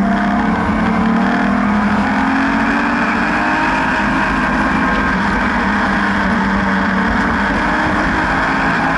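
BMW N52B30 3.0-litre naturally aspirated inline-six in an E36 track car, running continuously at a fairly steady engine speed with a slight rise in pitch in the first couple of seconds.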